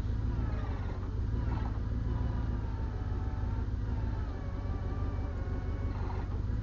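Diesel engine running steadily with a low drone, faint wavering higher tones over it.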